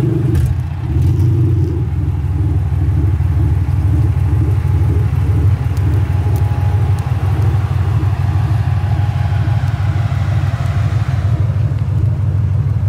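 Wide-body Acura NSX driving at low speed: a steady low engine and exhaust rumble with road noise.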